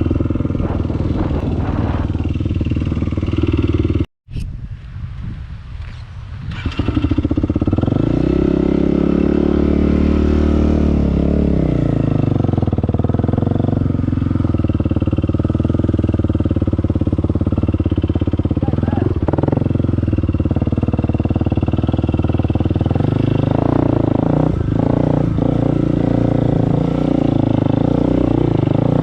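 Dirt bike engine running under way, its pitch rising and falling again about eight to twelve seconds in. The sound cuts out suddenly about four seconds in and returns quieter for a few seconds before the engine is loud again.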